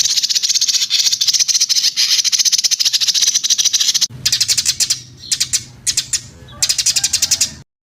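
Recorded songbird song: a dense, very fast, high-pitched chattering trill, switching about four seconds in to a different recording of fast trilling in bursts over a low hum, then cutting off suddenly near the end.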